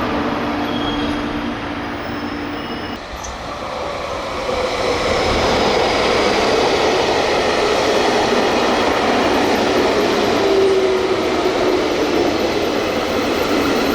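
Electric commuter train at a station platform. Steady motor tones break off abruptly about three seconds in, then the running and wheel noise of a train builds from about five seconds and stays loud, with a faint high wheel squeal.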